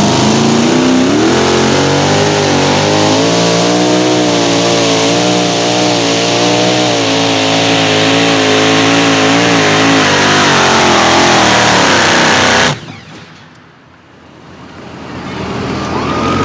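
Competition pulling vehicle's engine running hard at high revs during a pull, its pitch wavering as it works. The sound cuts off abruptly about 13 seconds in, and a quieter engine sound builds back up near the end.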